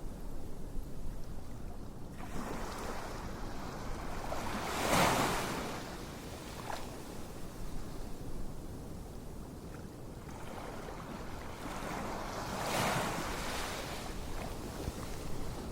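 Ocean waves washing in: a steady hiss with two surges that swell and fade, about eight seconds apart.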